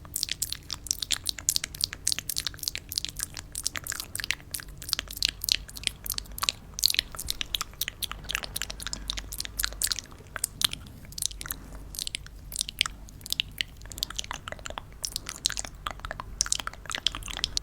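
Close-miked crisp clicking and crackling of many small hard candies tumbling and rattling against one another, a dense, irregular patter of sharp little clicks.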